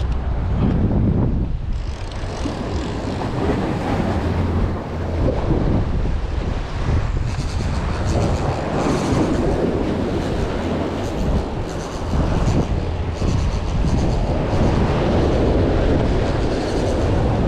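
Wind rumbling and buffeting on the microphone over a steady rushing noise that swells and dips every few seconds.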